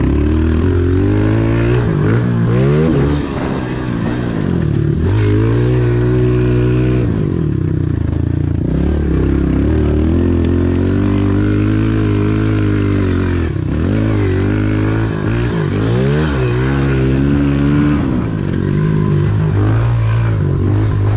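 Honda CRF125 pit bike's small single-cylinder four-stroke engine being ridden hard, its revs climbing and dropping again and again as the throttle is worked.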